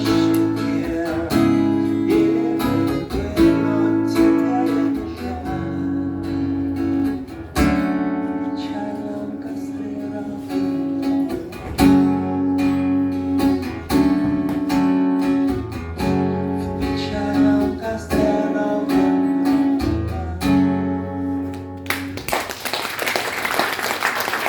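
Acoustic guitar strumming and picking chords, with steady chord changes, closing out a song. Near the end the guitar stops and applause and clapping begin.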